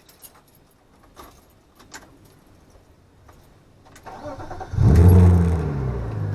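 BMW E36 engine cranked and started: a few light clicks, then about four seconds in the starter turns briefly, the engine catches with a rev flare that falls away, and it settles into a steady idle.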